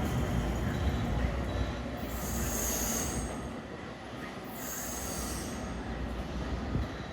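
NYC subway R211A train running on the express track, its steady rumble fading as it moves off, with two high-pitched wheel squeals about two seconds apart in the middle.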